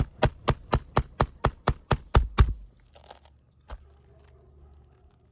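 Roofing hammer striking a steel nail-removal tool worked under an asphalt shingle: a quick run of about a dozen sharp strikes, about four a second, the last two heaviest, then one more knock a second later.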